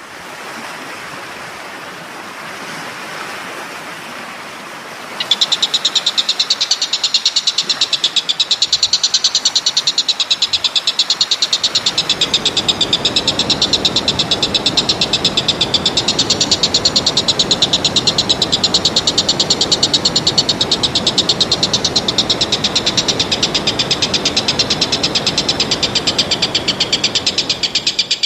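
A rapid, even, high-pitched pulsing trill starts about five seconds in and holds steady without a break, over a constant rushing background noise.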